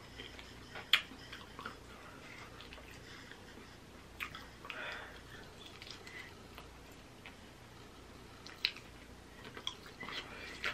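Close-miked chewing and wet mouth sounds of someone eating a piece of smoked sausage, with a few sharp clicks and smacks.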